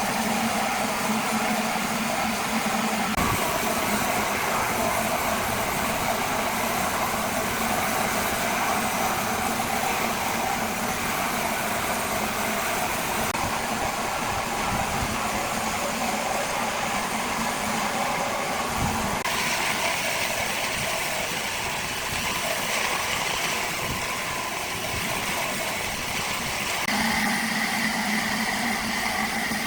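A large engine running steadily under continuous mechanical noise. Its low hum drops out about three seconds in and comes back near the end.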